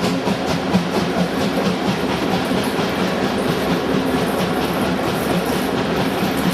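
A train passing close by, its wheels and wagons making a loud, steady rolling rattle. In the first second there is a rapid, even beat of about five strokes a second, which then blends into the rumble.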